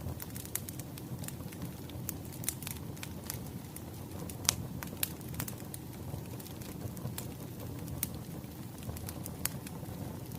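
Wood fire crackling: a steady low rumble of flames with irregular sharp pops and snaps, one louder pop about halfway through.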